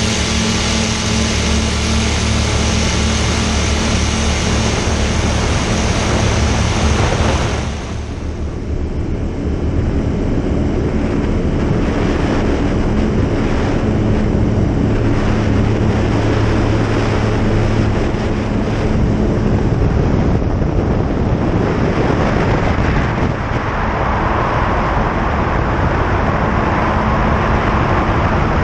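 Single-engine light aircraft's engine running steadily, heard from inside the cockpit. About eight seconds in, the sound changes abruptly, becoming duller and losing its high end.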